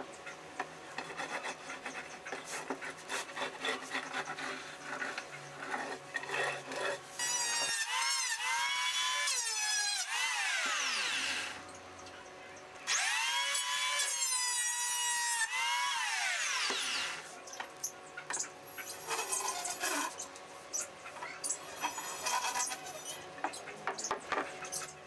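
Electric hand planer run twice for about four seconds each, shaving a wood board: each time the motor's whine rises as it spins up, holds, then falls away as it is switched off. Scraping and knocking of the wood being handled before and after the runs.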